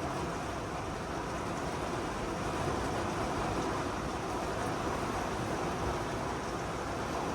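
Heavy thunderstorm rain with wind, a steady, even rush with no breaks.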